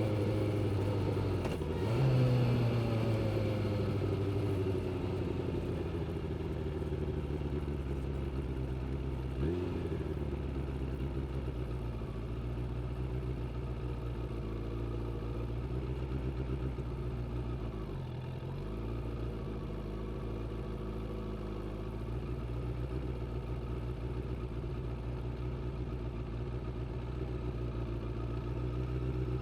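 Suzuki GSX600F motorcycle's inline-four engine running under way, heard from the rider's seat. Its note falls over the first few seconds and has two short breaks, one about a third of the way through and one about two thirds through; otherwise it holds steady.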